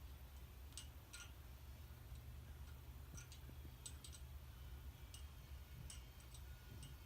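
Vintage 1970s Commander Angel ceiling fan running on its lowest speed: a faint, steady low hum with light ticks at irregular intervals.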